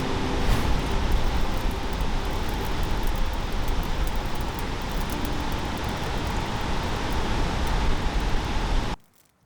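Steady low rumble and hiss of a vehicle running on a road, cutting off suddenly near the end.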